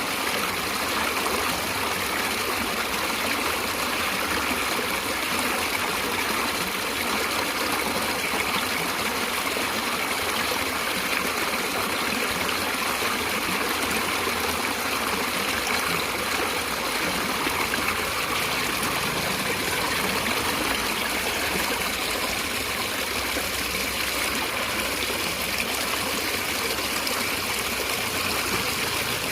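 Natural stream water flowing, a steady, even rush with no breaks.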